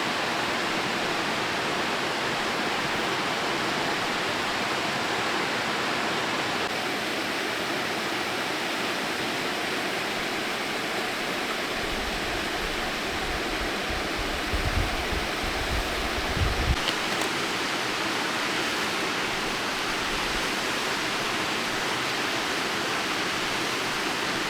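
Waterfall rushing in a steady roar of water. A low rumble joins in from about halfway through and stops about two-thirds of the way in.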